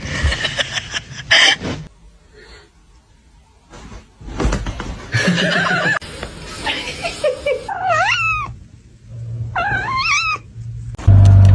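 Cat meowing, two wavering calls in the second half among shorter cat and household sounds from quick cuts. Near the end a loud steady low hum starts.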